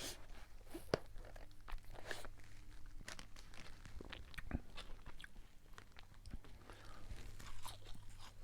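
Close-up chewing of a crispy fried chicken sandwich, the Checkers Mother Cruncher: irregular crunches and mouth clicks.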